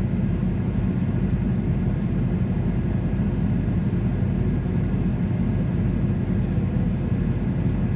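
Steady low vehicle rumble that holds even through the whole stretch.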